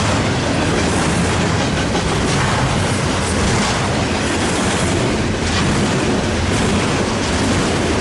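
Double-stack intermodal freight train's container cars rolling steadily past, their wheels clattering on the rails in a continuous loud rumble.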